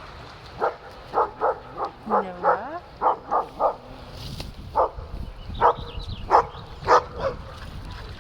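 Dog barking: about a dozen short, sharp barks, a quick flurry in the first half and then more widely spaced barks. A brief whine sounds among the early barks.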